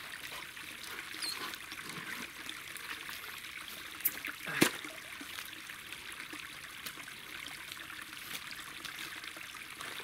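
Water trickling and running steadily, with two sharp knocks a little after four seconds in, the second one the loudest.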